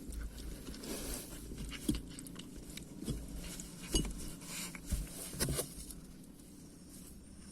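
Cats eating from a box of food: scattered crunching clicks and knocks, with louder ones about two, four and five and a half seconds in.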